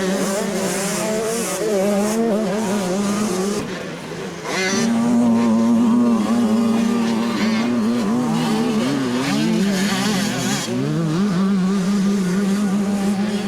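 80cc two-stroke motocross bike engines racing at high revs. The sound dips briefly about four seconds in, then comes back louder, with the pitch falling and rising again as the riders roll off and get back on the throttle.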